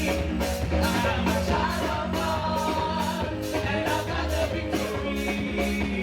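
Live church worship music: a praise team singing over a band with a drum kit keeping a steady beat.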